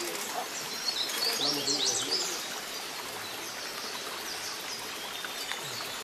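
Forest birds giving high chirps and quick sliding whistles, busiest about one to two seconds in, over a steady hiss of forest ambience.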